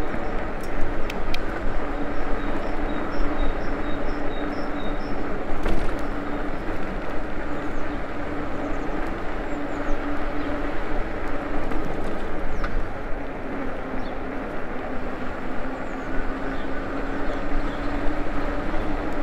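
ENGWE E26 fat-tyre e-bike being ridden: wind on the microphone and tyres rolling, with a steady hum. A short run of high, evenly spaced chirps a few seconds in.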